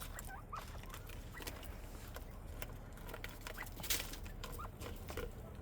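Northern bobwhite quail giving scattered soft, short chirps, over a run of light clicks and scratches from the birds dust bathing in dry soil, with one sharper click about four seconds in.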